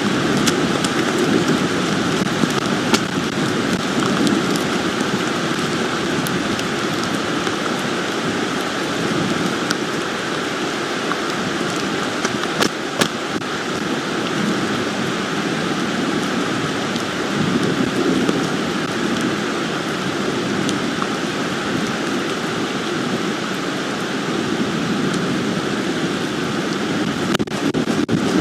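Steady rain falling, with scattered sharp raindrop hits.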